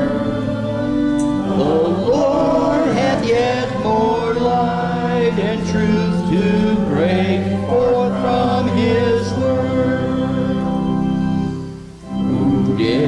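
A group of voices singing a hymn over held chords, with a brief break between phrases near the end.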